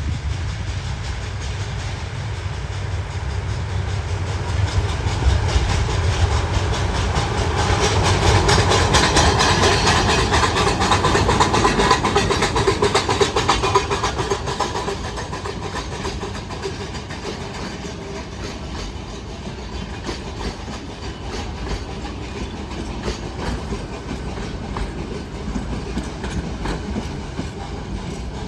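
Nilgiri Mountain Railway steam train passing close by, a low rumble under a rapid, even clatter of wheels on the rails. It grows louder over the first several seconds, is loudest around the middle, then eases off as the train moves away.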